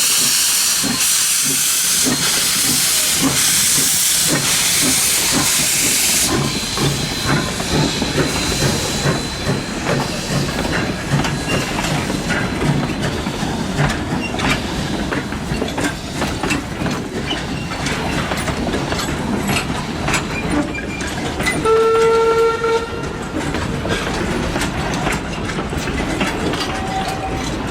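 QR C17 class steam locomotive working a train: a loud hiss of steam with regular exhaust beats for about the first six seconds, then the clatter of wheels and carriages on the rails, and a short steam whistle blast about two-thirds of the way through.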